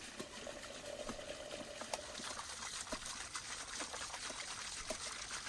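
Water trickling, with many faint small clicks and ticks over it.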